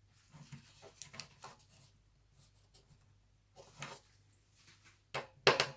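Handling noises from laptop disassembly: scattered light clicks and scrapes of parts and tools being worked, with a louder couple of sharp knocks near the end.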